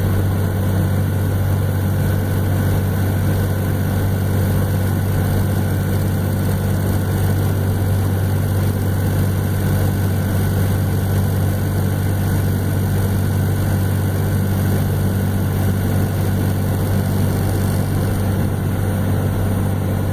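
Cummins 12-valve 5.9-litre inline-six diesel with compound twin turbos pulling hard under a heavy towing load up a grade, a steady low drone that holds its pitch throughout: the truck stays locked in overdrive without downshifting or losing speed.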